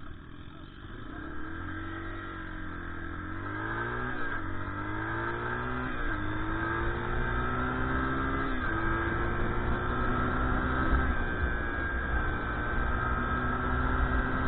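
Dirt bike engine accelerating through the gears: the pitch climbs and drops sharply at each upshift, three times in the first nine seconds or so, then holds a steady cruise as it gets louder.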